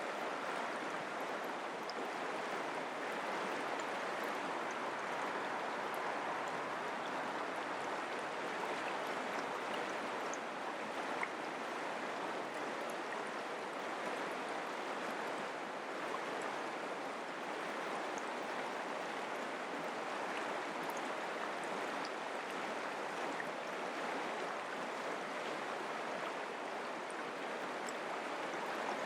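Mountain creek water flowing over rocks, a steady rushing noise.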